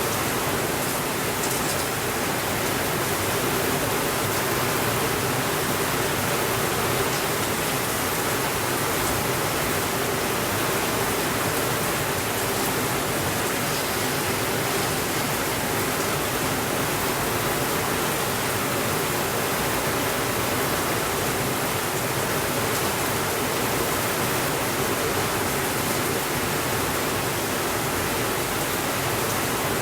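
Steady heavy rain, a dense even hiss with no breaks or swells.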